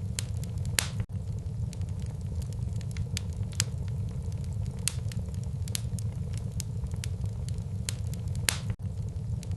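Wood fire crackling in a fireplace: irregular sharp pops and snaps over a steady low rumble, with two louder pops, one about a second in and one near the end.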